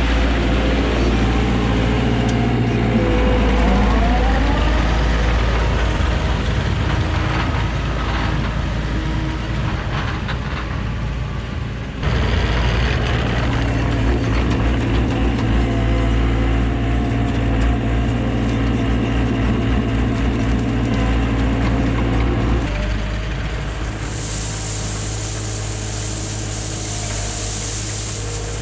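Heavy construction machinery engine running steadily. The sound changes abruptly twice, about 12 seconds in and again about 23 seconds in, and a high hiss joins near the end.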